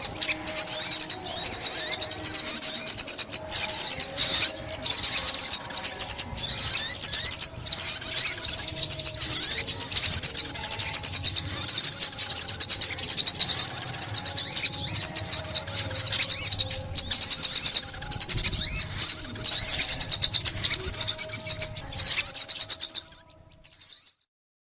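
Sunbird ('chim ốc mít') song: a rapid, high-pitched twittering of quick chirps and trills, nearly unbroken, that stops shortly before the end.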